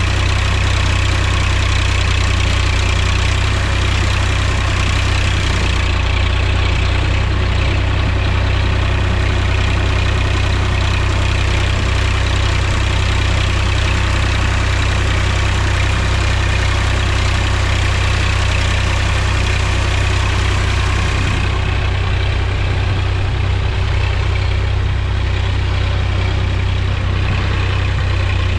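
Mahindra tractor's diesel engine running steadily, a deep even drone with no change in speed.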